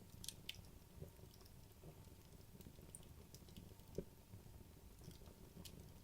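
Wood logs burning in a fireplace: faint crackling with scattered small pops, the sharpest one about four seconds in.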